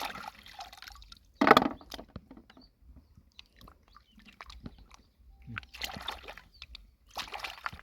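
Shallow lake water sloshing and splashing as hands work through it picking snails and clams, with one loud splash about a second and a half in and softer splashes near the end.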